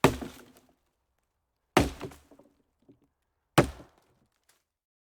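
Three sharp knocks or chopping impacts, evenly spaced about two seconds apart, each dying away within half a second.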